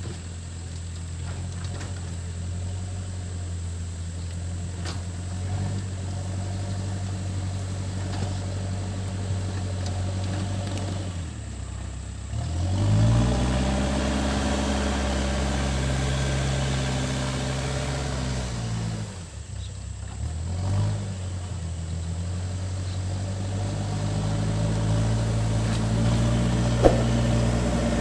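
Backhoe loader's diesel engine running, then revving up about 12 seconds in and holding the higher speed for several seconds as the machine works, before dropping back and climbing again near the end.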